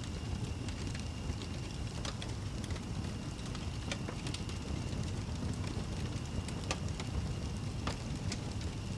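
Fireplace fire burning with a steady low rumble and scattered sharp crackles and pops, the clearest about two, four, seven and eight seconds in. A faint steady high tone sits under it.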